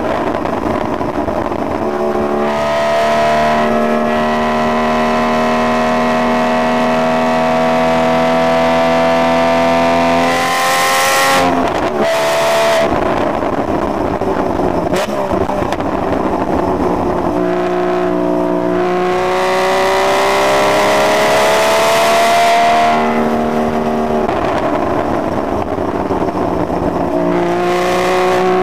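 Porsche Cayman's engine heard from inside the cabin on track, pulling hard with its pitch climbing for several seconds, then dropping sharply as the driver lifts, shifts or brakes, about 11 seconds in and again near the end. Wind and tyre rush rise at speed between the engine pulls.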